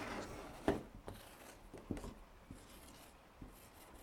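Faint scratching strokes of a pen writing a word, a few short strokes with the loudest about 0.7 s in.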